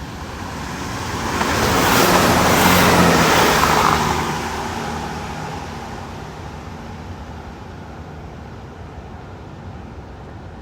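Class 166 'Turbo' diesel multiple unit passing through the station at speed without stopping. The rush of engine and wheel noise builds, peaks about two to four seconds in, then slowly fades away.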